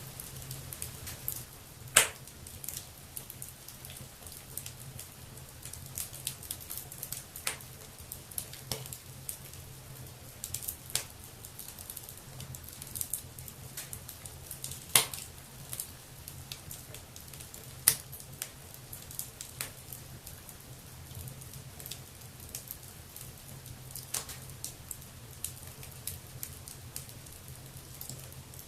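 Wood fire burning in a fireplace: irregular crackling with frequent small pops over a steady low rumble, and a few sharp, much louder pops now and then.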